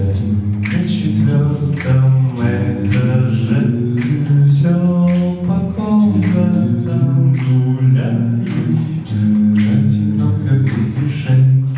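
Two male voices singing a cappella in harmony, low held notes under a moving melody line.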